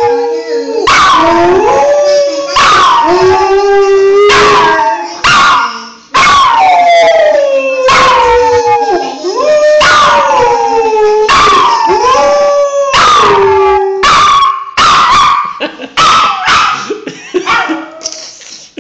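A briard and a second dog howling in response to a phone ringtone, one long falling howl after another, with short sharp yelps in between, fading out near the end.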